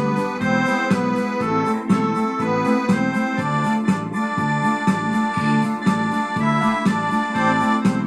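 Instrumental music on an electronic keyboard: sustained organ-like melody notes over a steady, evenly pulsing bass and chord accompaniment.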